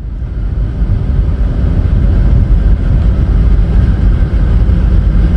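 Car driving, a loud, steady low rumble of engine and road noise that ends in an abrupt cut.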